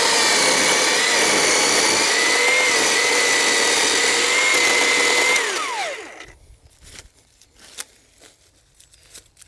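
Black & Decker 36 V cordless electric chainsaw running and cutting through a log, its motor whine steady with slight dips in pitch under load. About five and a half seconds in the trigger is released and the whine falls away as the chain winds down, followed by a few light knocks.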